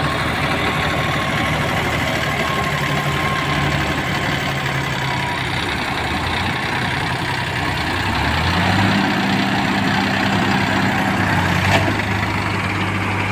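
Tractor engine running steadily, revving up about eight seconds in and dropping back down a few seconds later. A single sharp click comes near the end.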